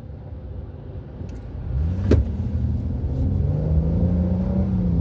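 Road vehicle engine accelerating. About two seconds in it grows louder and its pitch glides up, with a sharp click at that moment, then the pitch climbs slowly and eases off near the end.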